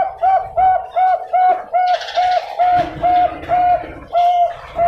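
Bangkok-line zebra dove (perkutut) cooing in a rapid, even series of short notes, about three a second. The notes grow slightly longer and further apart toward the end.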